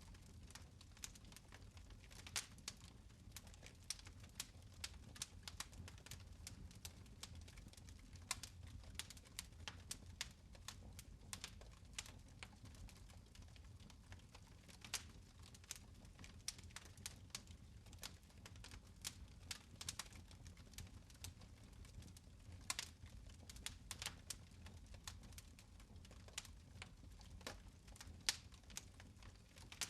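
Fireplace fire crackling: irregular small snaps and pops, several a second at uneven spacing, over a faint low rumble.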